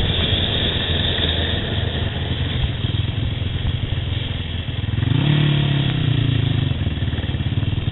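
Yamaha YFZ sport quad's engine running on the trail, revving up about five seconds in and easing back down.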